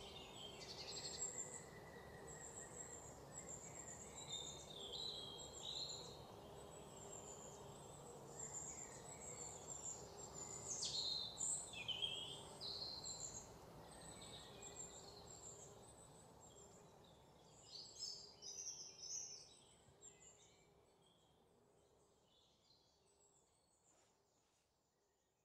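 Faint birds chirping and calling over a steady low background hiss, fading out over the last several seconds.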